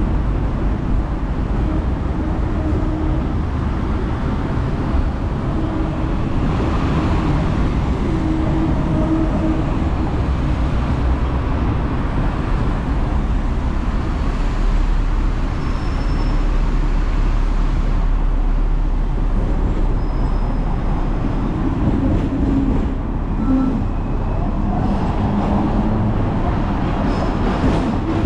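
Hong Kong tram running along its street track: a steady low rumble of wheels on rail and motor hum, with street traffic around it.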